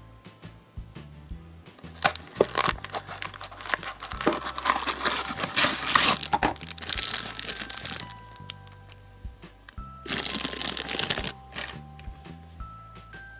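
Plastic candy-toy packaging crinkling and rustling as it is handled and opened, in a long stretch of a few seconds and then a second burst about ten seconds in, over light background music.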